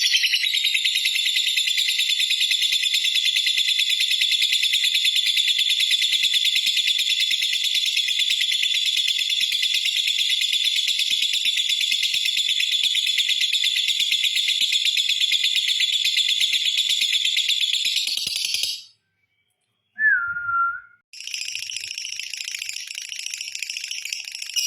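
Lovebird's long unbroken 'ngekek' chatter: a rapid, high, buzzing trill held without pause for about eighteen seconds, then cut off. After a short gap comes a single brief falling note, and the trill starts again, softer, a few seconds before the end.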